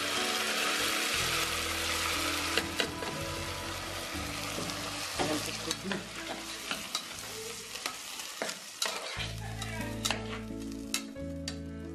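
Hot oil in a pressure-cooker pot sizzling hard as a wet ginger-garlic paste mixture fries in it, the sizzle easing off over the first few seconds. Scattered sharp clicks and taps follow as the mixture is stirred in the pot.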